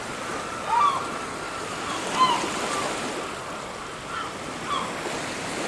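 Surf washing steadily on a beach, with birds giving short calls about four times over the sea noise.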